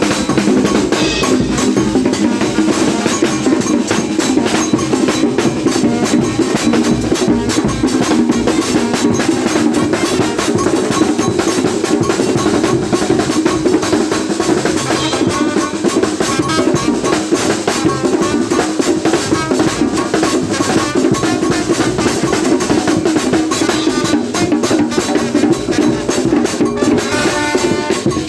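Soloku dance music: dense, fast drumming that keeps a driving beat without a break.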